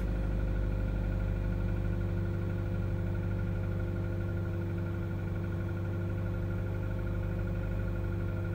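2014 Ford Fusion's 2.5-litre four-cylinder engine idling steadily just after a cold start, heard from inside the cabin as an even low hum.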